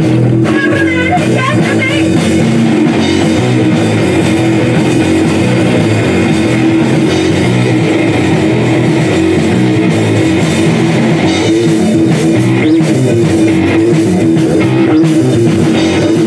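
Live rock band playing an instrumental passage: loud, distorted electric guitar over a drum kit, with a brief sung line at the very start.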